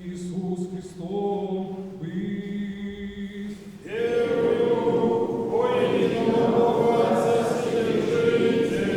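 A priest's voice chants the close of the Gospel reading in Church Slavonic on a held reciting tone. About four seconds in, a Russian Orthodox church choir comes in, singing louder in several voices.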